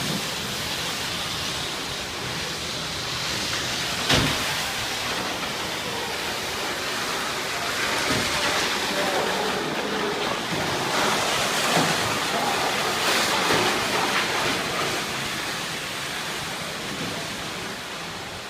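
Steady rushing noise of road traffic, with one sharp knock about four seconds in and a louder stretch in the middle.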